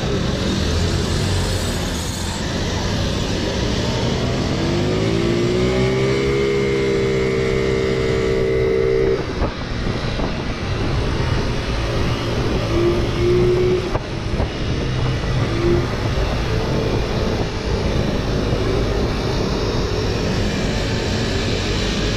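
Car engine running, heard from inside the cabin. About four seconds in, a pitched note rises, holds steady for about four seconds, then stops.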